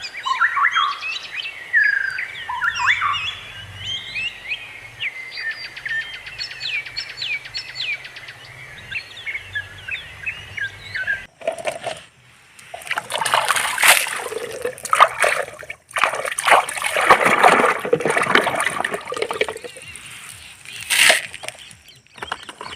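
Birds chirping and trilling for about the first eleven seconds, then after an abrupt cut, water splashing and sloshing in irregular bursts.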